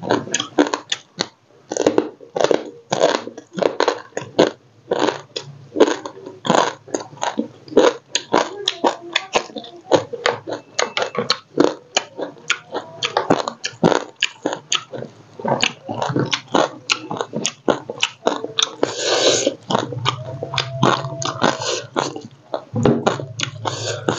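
Close-miked chewing and crunching while eating small fried crabs with rice, a dense run of quick wet mouth smacks and crunches of crab shell.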